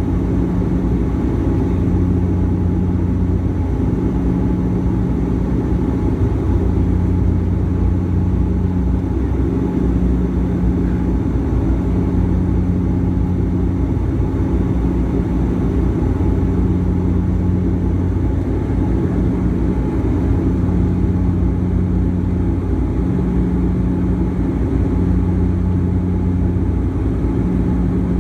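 Airliner engines heard from inside the cabin during the climb after takeoff: a steady low rumble with a low hum that swells and fades every couple of seconds.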